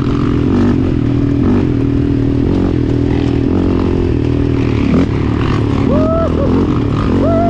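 Off-road ATV and dirt bike engines running steadily at a low, even speed, with a couple of short rising-and-falling tones near the end.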